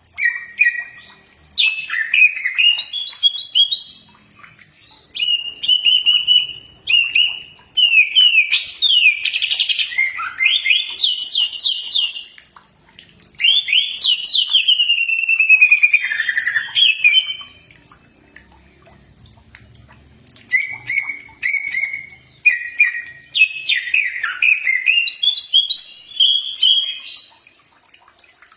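Cucak ijo (green leafbird) singing. Its song comes in bouts of varied, fast whistles and chattering trills, with a pause of about three seconds just past the middle.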